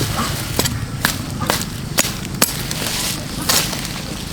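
Blade chopping through flower stalks: about six sharp cuts roughly half a second apart, then a rustle of cut foliage near the end.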